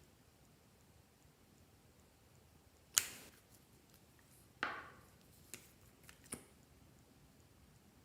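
A handful of sharp clicks and taps from hands working with slime and its containers. The loudest is about three seconds in, a softer, duller one follows over a second later, then a few small ticks.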